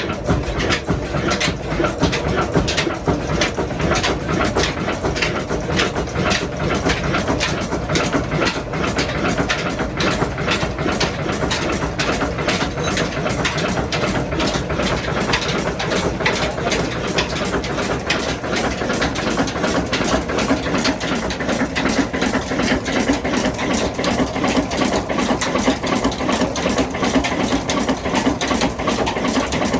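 Ruston diesel engine running with a steady, rapid, clattering mechanical beat.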